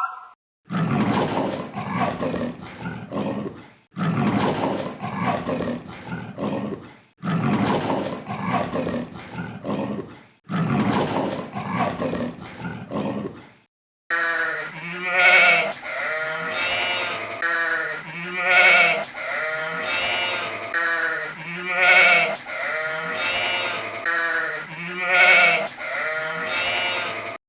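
Farm animal calls: four similar stretches of about three seconds each with short breaks between, then a run of pitched calls repeating every second or two.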